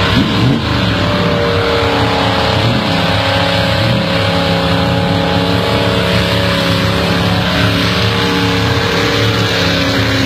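Holden 308 V8 held at high revs through a burnout, its note steady with small wavers in pitch, over the noise of the spinning rear tyres.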